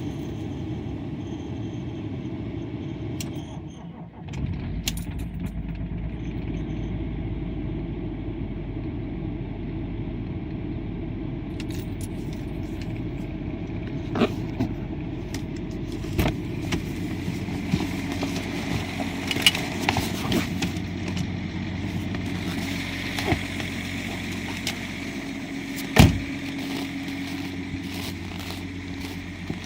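BMW E39 530d's straight-six diesel starting from cold in hard frost about four seconds in, then idling steadily. Scattered sharp clicks through the second half, and one loud knock near the end.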